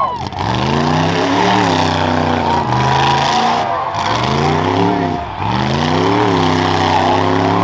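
Modified 1993 Ford Bronco rough truck's engine under hard throttle on a dirt course, its pitch climbing and dropping about five times as the driver accelerates and lifts through the turns.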